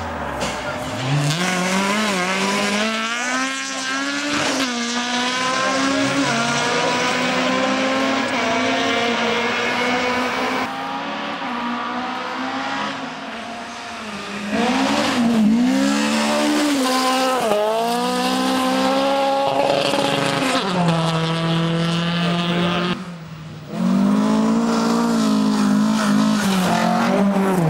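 Toyota Corolla GT rally cars' four-cylinder engines revving hard at full throttle, pitch climbing and dropping back again and again as they shift through the gears, with tyre squeal. The sound cuts abruptly between cars several times.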